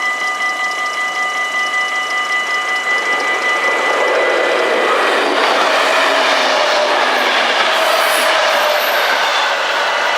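Level-crossing warning bells ringing in a fast pulsing rhythm. From about four seconds in, a passing train's running noise on the rails rises and covers the bells.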